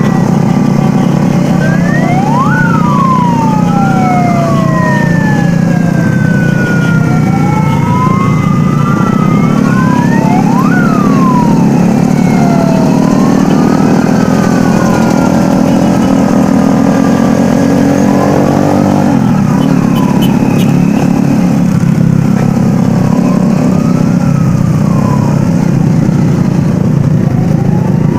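Several sirens wailing at once, their pitches rising and falling out of step with each other, with now and then a quick upward sweep, over a steady engine rumble.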